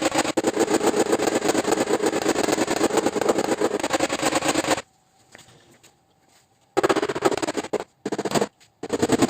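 Rapid, machine-fast tapping, a long unbroken run of sharp strokes for about five seconds, then a pause and a few shorter bursts near the end.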